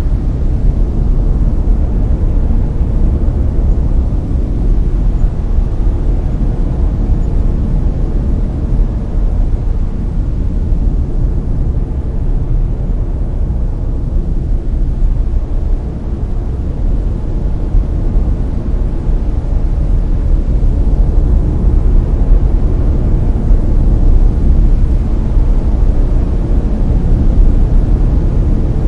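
Layered brown noise: a steady, deep random hiss with most of its energy low down and little in the highs.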